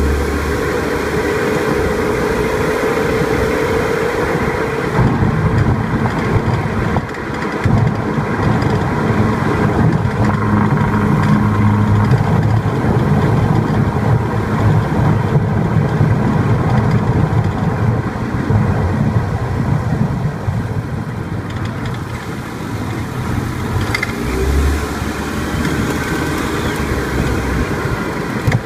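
Mazda Axela being driven over a rough surface: road and tyre noise with a clattering knock from the front wheel area. The cause is the front brake caliper, missing its upper mounting bolt, rattling loose with the vibration.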